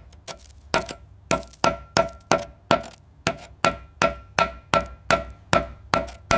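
A hammer striking metal at a steady pace, about three blows a second, each blow leaving a short ring at the same pitch.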